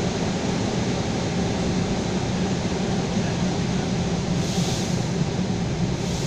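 Suburban electric train running at speed, heard from inside the carriage: a steady low rumble of wheels on rails, with a brief hiss about four and a half seconds in.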